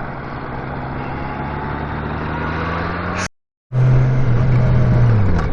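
Honda Gold Wing F6B's flat-six engine running as the motorcycle rides along. The sound cuts out completely for under half a second a little past three seconds in, then comes back louder. Near the end the engine note falls and then rises again.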